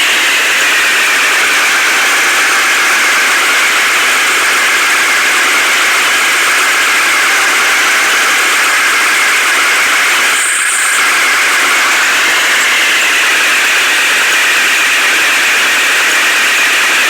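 Heavy vehicle engine running steadily, heard as a loud, even rush of noise with a faint wavering tone, dipping briefly about ten seconds in.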